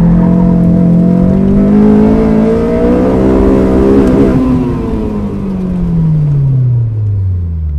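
Honda S2000's 2.2-litre four-cylinder engine, heard from the open cockpit, holding high revs under load for about four seconds, then dropping steadily in pitch as the car slows after finishing an autocross run. Wind and road noise run underneath.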